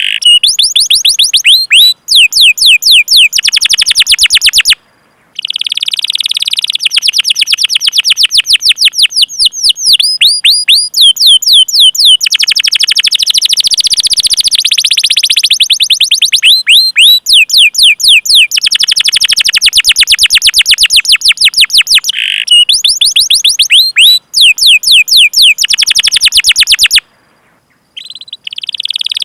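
Domestic canary singing long, fast trills of rapidly repeated chirps (rolling song), with brief pauses about five seconds in and near the end.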